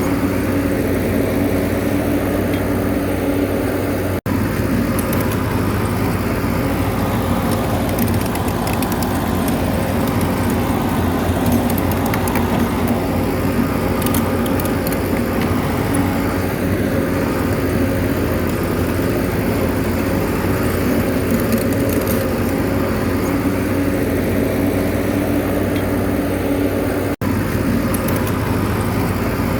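Bulldozer's diesel engine running steadily at work, with two momentary breaks in the sound.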